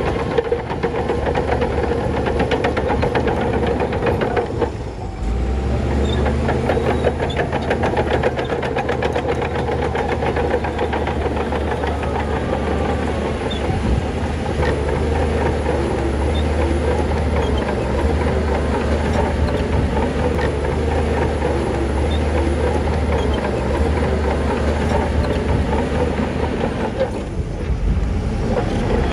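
Heavy diesel engine of earthmoving machinery running hard and steadily, with a rapid knocking beat. The level dips briefly about five seconds in and again near the end.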